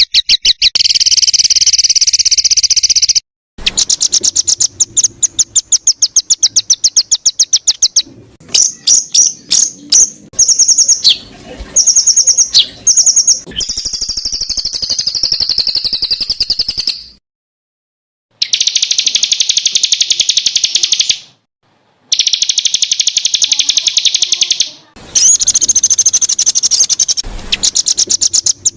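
Songbirds singing rapid-fire 'tembakan' phrases: fast trains of high, sharply repeated notes, many to the second. These are cut between recordings, with a few brief total silences. Around the middle there is a spell of warbling with several gliding tones at once.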